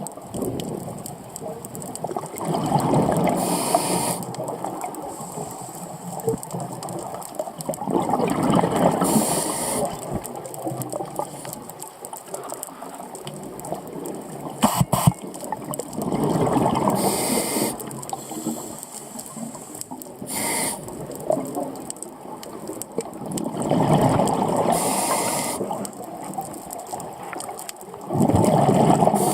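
Scuba diver breathing underwater through a regulator: about every seven or eight seconds a loud burst of bubbling exhaust bubbles, with short hisses of the regulator in between, over a steady underwater hiss.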